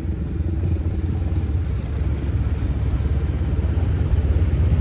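Motorcycle engine running steadily at low speed, heard from the moving bike as a continuous low rumble.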